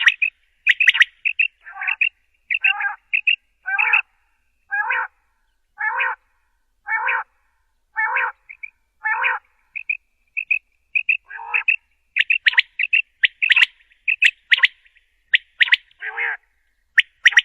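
Quail calling: quick high chirps, then a run of about eight evenly spaced calls roughly a second apart, then quick chirps again.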